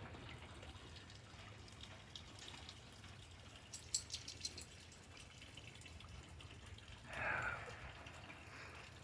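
Faint rain dripping steadily, with a short run of sharper drips about four seconds in and a brief faint sound near seven seconds.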